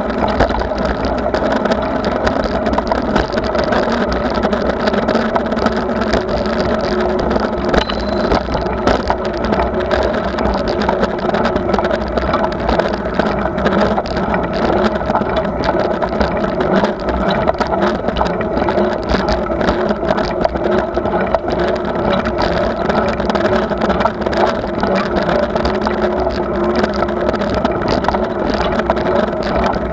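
Steady rumble and noise of a moving bicycle ride, with no pauses or sudden sounds.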